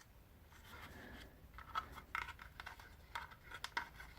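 Faint scratchy rustling and irregular small ticks as 110-pound test fishing line is wrapped tightly around a broken plastic part by hand.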